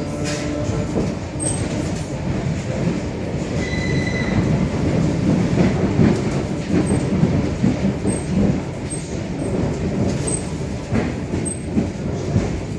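ER2R electric train car running on the track, heard from inside the car: a steady rumble of wheels and running gear with a few rail-joint knocks. A brief high wheel squeal comes about four seconds in.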